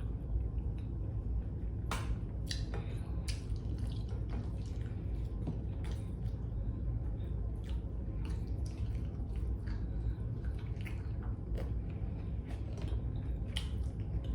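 Close-up eating sounds: scattered wet clicks and smacks of chewing and lips, over a steady low hum.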